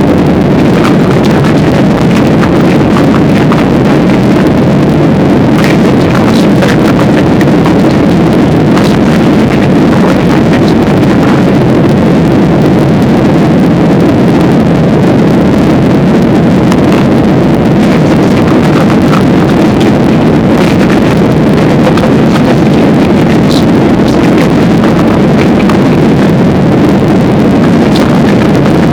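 Loud, steady engine and airflow noise of a passenger plane heard inside the cabin, with faint scattered ticks and rattles.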